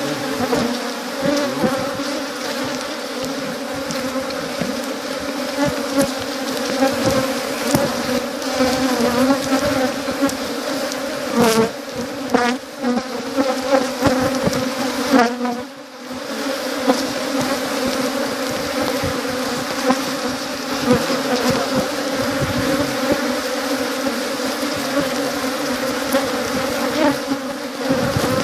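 Honeybees buzzing in large numbers: a loud, steady hum. Between about 11 and 15 seconds, single bees pass close by with their pitch wavering, and the hum dips briefly soon after.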